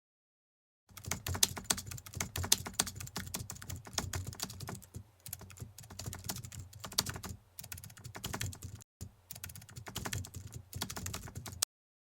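Rapid, irregular clicking in quick runs with short pauses, like typing on a keyboard. It starts about a second in and stops abruptly near the end.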